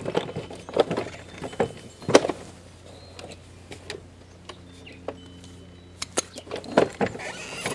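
Scattered metal clicks and knocks of hand tools and parts being worked while a lawn mower engine is unbolted and taken off, over a faint steady hum.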